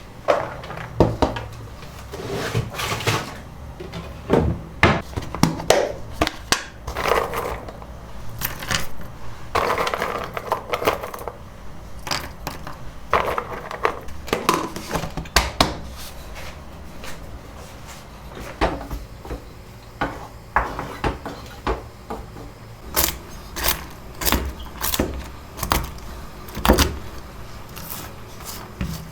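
Household handling sounds: a run of sharp clicks, knocks and light clatters, with stretches of rustling in the first half and a quicker string of clicks near the end.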